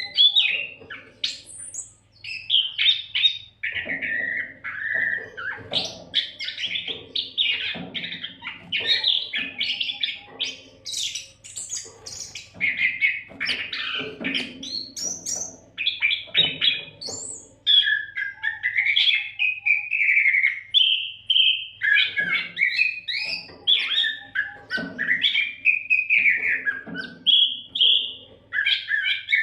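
Oriental magpie-robin (kacer) singing almost without pause: a fast, varied run of whistles, chirps and gliding notes, with a faint steady low hum beneath.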